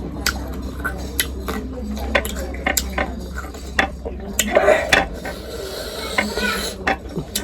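Scattered sharp clicks and clinks of cutlery and dishes during a meal, a dozen or so separate strikes, over a steady low hum.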